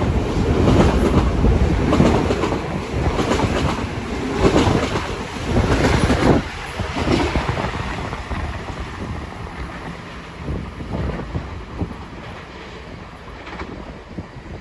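Long Island Rail Road passenger train passing, its wheels clacking over the rail joints; the sound drops away about six seconds in and fades as the train clears.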